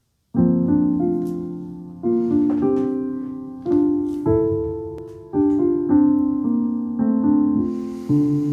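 Piano playing a slow hymn tune in chords, each chord struck and left to ring and fade before the next, as the instrumental introduction before the singing begins.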